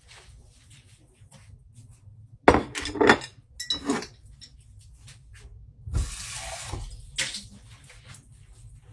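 Household handling noises: a few loud clattering knocks, then a short hiss about a second long, like water or a spray, and one more knock.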